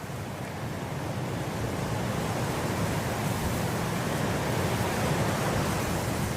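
Wind blowing through grass, a steady rushing that swells gradually louder over the first couple of seconds and then holds.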